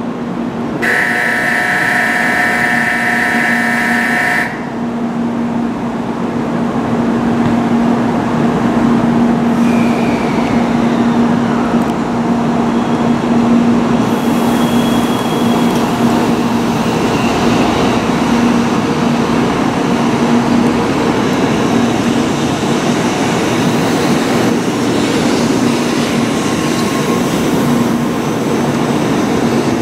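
N700-series shinkansen train pulling out of the platform: a steady electrical hum with faint gliding whines, joined about halfway through by a growing rush of wheel and air noise as it gathers speed. A bright electronic tone sounds for about four seconds near the start.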